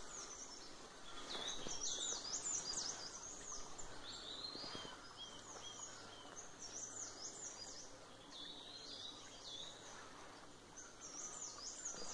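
Birds singing: repeated phrases of quick, high chirps and whistles that sweep up and down, with short pauses between the phrases.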